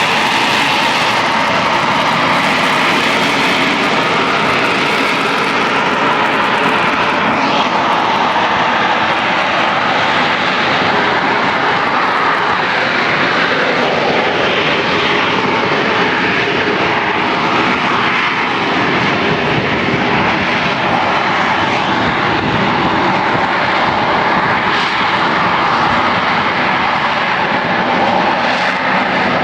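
AV-8B Harrier's Rolls-Royce Pegasus turbofan running at high thrust as the jet hovers: a loud, steady jet noise with faint steady tones in it. The highest hiss drops away about seven seconds in.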